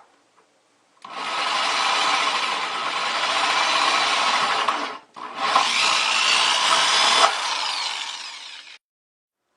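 Power drill cutting a hole through a plastic bucket, in two long runs. The first starts about a second in, a brief pause follows, and the second stops abruptly near the end.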